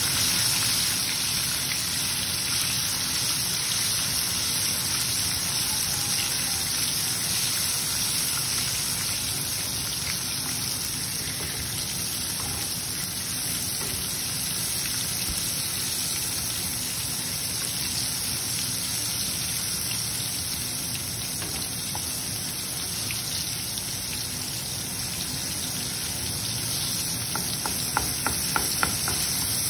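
Garlic, tomato, cumin and whole dried red chillies sizzling steadily in hot oil as a tadka fries. Four quick clicks come near the end.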